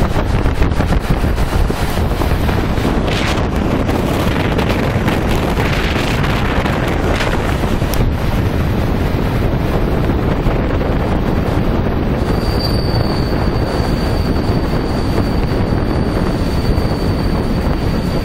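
Steady running noise of a moving passenger train heard from on board, with wind rushing over the microphone. A steady high whine comes in about two-thirds of the way through and holds.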